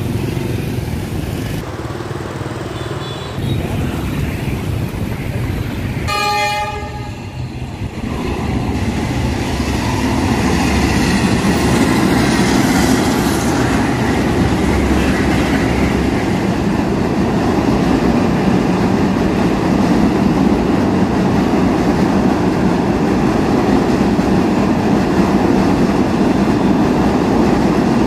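A diesel-hauled Vietnam Railways passenger train sounds one horn blast of about two seconds, beginning about six seconds in. The train then passes close by with a loud, steady rumble of wheels on the rails that builds over the next few seconds and holds.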